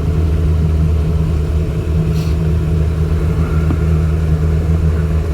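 Sterndrive boat engine running steadily underway as a smooth, even low drone. Its worn gimbal bearing and frozen U-joints have been dealt with, and the owner calls it so much quieter.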